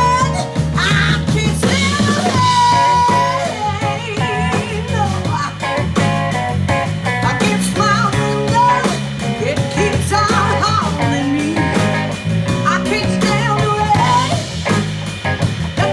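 Live band playing a song: a lead melody line bending in pitch over steady bass and drums.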